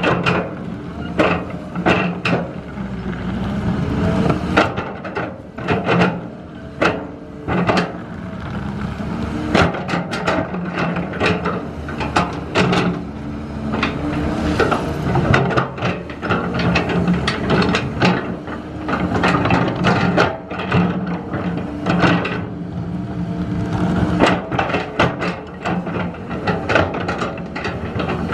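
A construction machine's engine running steadily, with frequent irregular knocks and clanks over it.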